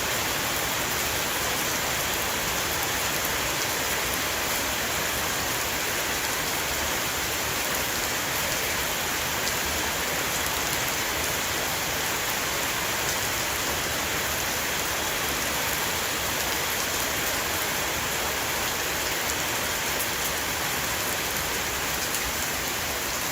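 A heavy rain shower falling steadily on a roof, a dense even hiss with fine drop ticks throughout.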